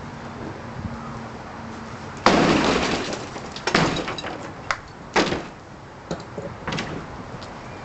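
Porch roof being demolished: a loud crash of breaking material a little over two seconds in, followed by several shorter knocks and clatters of falling debris.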